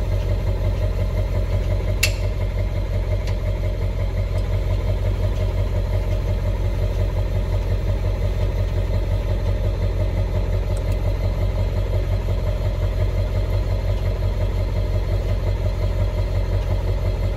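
Tow vehicle's engine idling steadily, with one sharp click about two seconds in.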